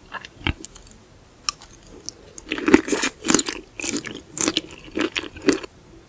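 Close-miked chewing and biting of raw seafood: a few scattered sharp clicks, then a quick run of loud chews that stops suddenly near the end.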